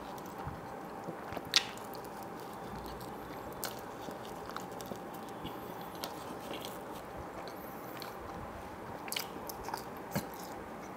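A person chewing and biting mouthfuls of pizza close to the microphone. Sharp, irregular mouth clicks and crunches recur throughout, the loudest about a second and a half in.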